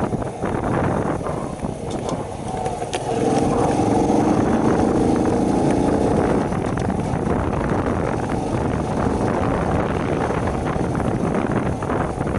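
Shineray 50cc motorbike engine running while riding, with wind buffeting the microphone. About three seconds in, the engine note comes up clearly at a steady pitch, holds for about three seconds, then sinks back under the wind noise.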